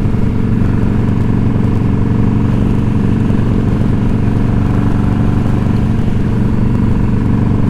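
Motorcycle V-twin engine running steadily, with an even low drone and no change in speed.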